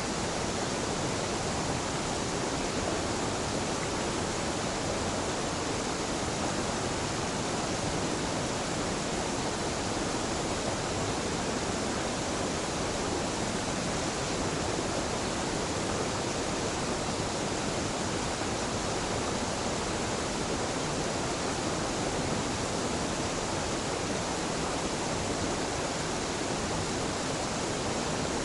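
Small mountain waterfall where two streams meet, water falling and rushing in a steady, unbroken wash of noise.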